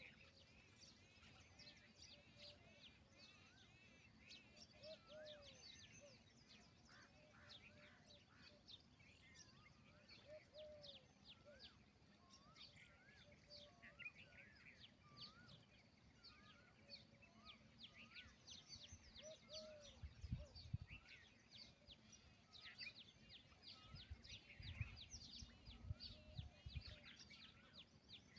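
Faint birdsong from several birds: many quick, high chirps over lower, arching call notes that repeat throughout, with a few low rumbles in the later part.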